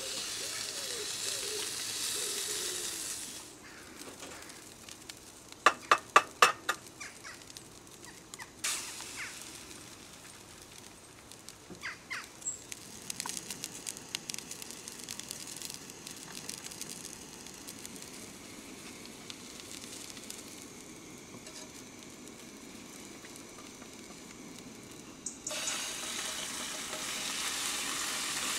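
Bacon and eggs sizzling in a hinged frying pan on a portable gas stove, a steady hiss that is loud at the start and end and quieter in the middle. About six seconds in there is a quick run of sharp clicks, with a few more later.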